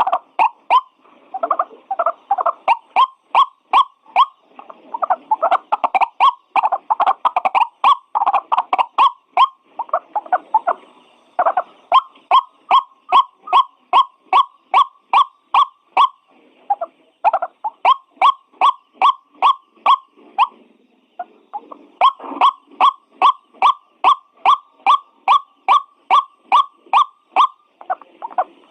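White-breasted waterhen (ruak-ruak) calling: sharp notes repeated about two to three times a second in bouts of several seconds, broken by short pauses, over a lower gurgling.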